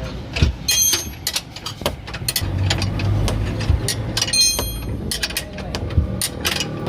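Metal tools and parts knocking and clicking during underchassis repair work on a car. Two of the clinks, about a second in and again past the middle, ring like struck steel, over a low steady hum.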